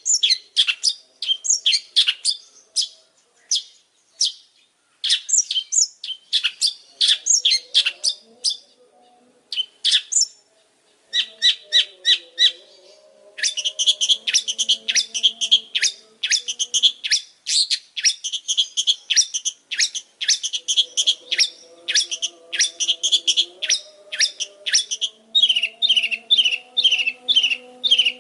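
Long-tailed shrike (pentet) singing a fast run of sharp, chattering notes. The song comes in bursts with brief pauses at first, then runs almost without a break from about halfway through.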